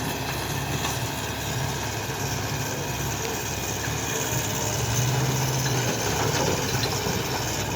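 A vehicle engine running steadily, a little louder about five seconds in.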